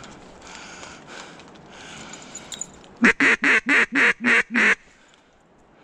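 Hand-blown duck call sounding a quick run of seven loud quacks, about four a second, starting about three seconds in.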